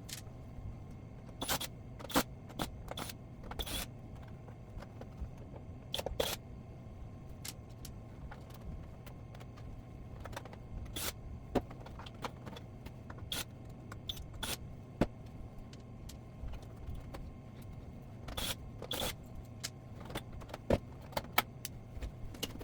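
Scattered sharp clicks, light knocks and scrapes of hard parts being handled, over a steady low hum.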